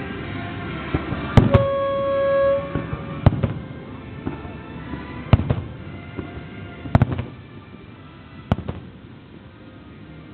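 Fireworks exploding with sharp, separate bangs about every one to two seconds, over music playing with a long held note.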